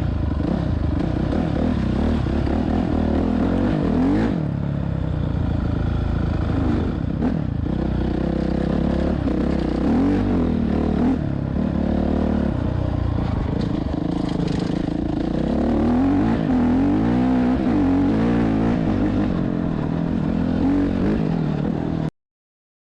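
Motorcycle engines running and revving, the pitch rising and falling again and again as they accelerate and ease off. The sound cuts off abruptly near the end.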